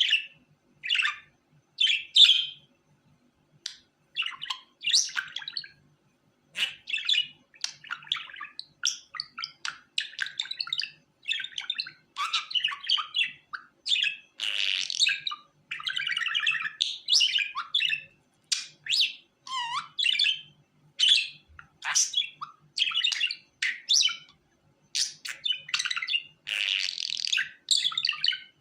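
Budgerigar chirping and warbling in short, rapid bursts of chatter with brief pauses between phrases, sparse at first and nearly continuous after the first several seconds.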